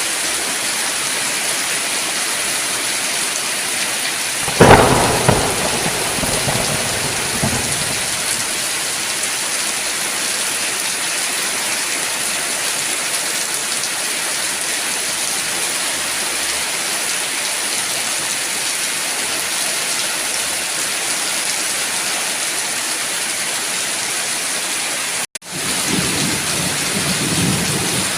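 Steady heavy rain, with a sudden loud thunderclap about four and a half seconds in that rumbles away over the next few seconds. Near the end the sound cuts out for a split second, then low thunder rumbles under the rain.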